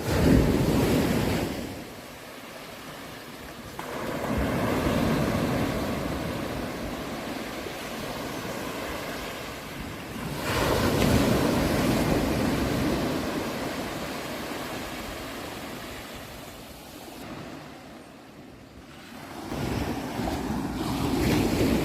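Ocean waves breaking on a shore: four surges, each coming in suddenly and washing back slowly.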